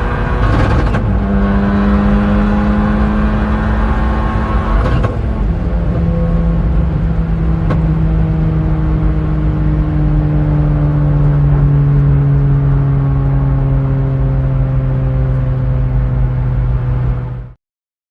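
Honda Civic FK2 Type R's tuned 2.0-litre turbocharged four-cylinder engine pulling hard through the gears, with upshifts about a second and five seconds in, each stepping the engine's pitch down. The sound cuts off abruptly near the end.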